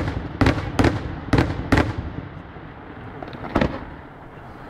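Fireworks going off: a rapid string of sharp bangs, about two a second, then a brief lull and a single bang near the end, each with a short echoing tail.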